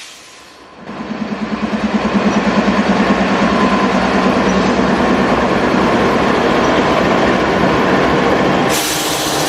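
CSX freight train passing close by. It rises suddenly about a second in with a rapid rhythmic pulsing, then settles into a steady, loud rumble of wheels on rail.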